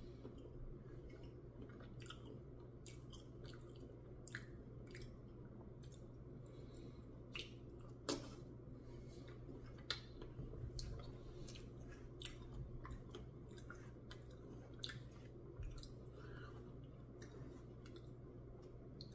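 A person eating a soft, half-melted Blizzard ice cream treat with peanut butter cup chunks: quiet chewing and wet mouth sounds with many scattered small clicks, two of them louder, over a low steady hum.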